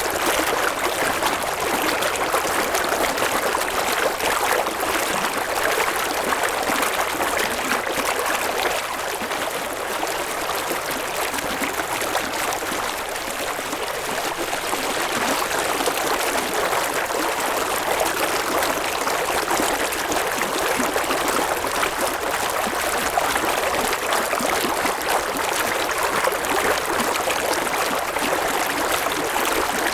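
A river flowing steadily: an even rush and babble of water over stones, easing slightly about a third of the way in before picking up again.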